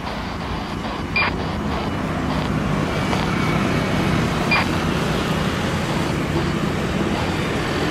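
Aircraft engines rumbling steadily, growing slowly louder. Two short radio squelch clicks cut in, about a second in and again about four and a half seconds in.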